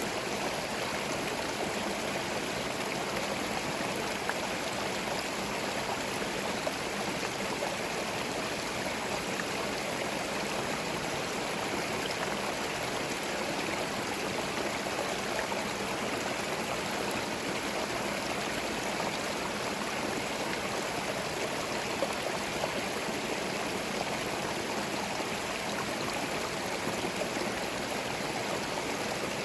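Forest stream running over stones, a steady rush of flowing water with a light gurgle.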